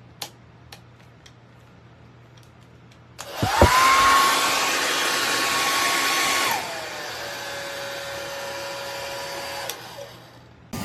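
Revlon compact 1875W hair dryer switched on: the motor whine rises fast to a steady pitch as it blows on high. About halfway through it is switched down to low, the whine dropping in pitch and loudness. Near the end it is clicked off and winds down. A few faint clicks come before it starts.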